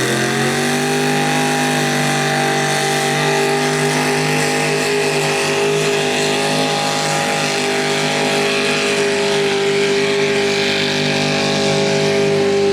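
Mini rod tractor puller's engine held at high revs during a pull, its pitch climbing at the start and then staying steady and loud.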